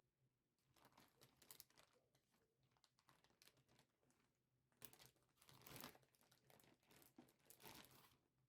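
Faint crinkling and rustling of something being handled: a string of short irregular crackles, thicker and louder around five to six seconds in and again near the end.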